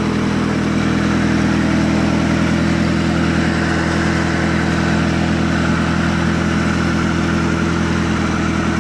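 Mitsubishi 4G63 inline-four engine idling steadily, loud, with no revving.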